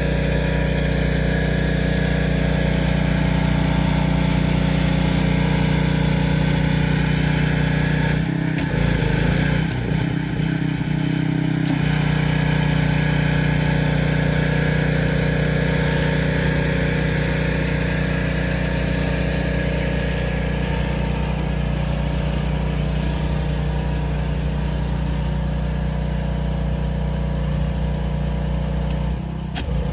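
Pressure washer's small gas engine running steadily, its note changing for a few seconds about eight seconds in and again briefly near the end.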